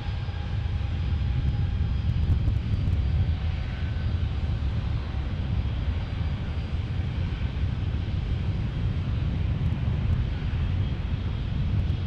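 Jet airliner's engines, a steady low rumble that grows a little louder about two seconds in.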